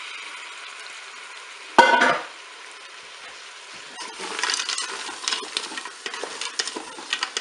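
Frozen button mushrooms sizzling in the hot bowl of a Cookeo multicooker set to browning, with a short loud clatter about two seconds in. From about halfway, a wooden spatula stirs and scrapes round the bowl with many small clicks.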